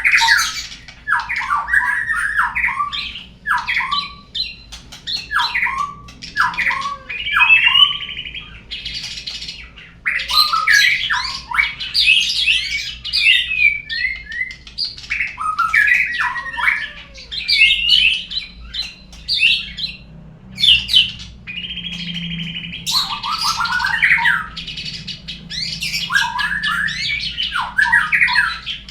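Murai songbird singing a long, varied song of quick whistled phrases, trills and harsh chattering calls with short pauses between them. It is a lure song, played to prompt caged murai to sing.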